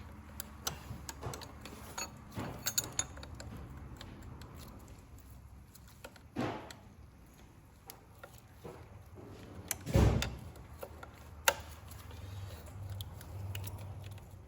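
Scattered clicks, taps and knocks of hand tools and parts being handled in the engine bay, over a low steady hum. A louder thud comes about ten seconds in, and a single sharp click shortly after.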